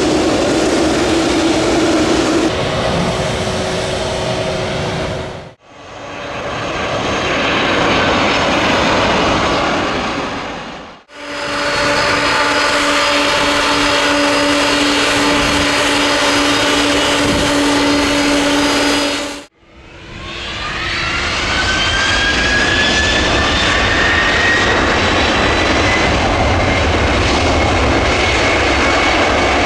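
Jet airliner engines heard close up in several hard-cut clips. From about eleven seconds in, a Boeing 767-300ER's engines: first a steady whine over a strong hum, then after another cut the engines spool up with a rising whine that levels off, as when thrust is set for take-off.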